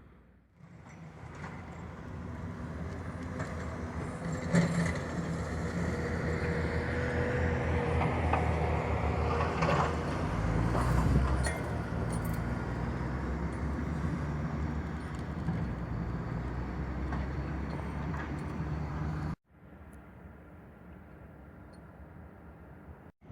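Motor vehicle sound: a steady engine hum with road noise that builds over the first few seconds. It cuts off abruptly a few seconds before the end, giving way to a quieter hum.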